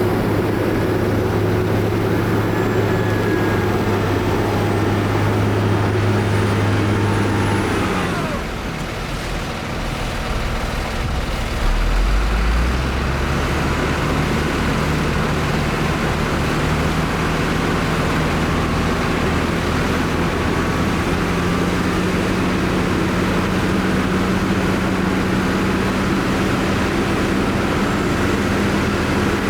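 Heavy diesel engine of earthmoving machinery running steadily; about eight seconds in its note falls and it goes quieter, then a brief louder low rumble comes around twelve seconds and it settles back into steady running.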